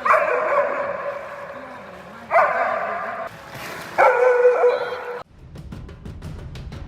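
A husky gives three long, whining howls, the last ending abruptly about five seconds in. Music with a run of drum beats follows.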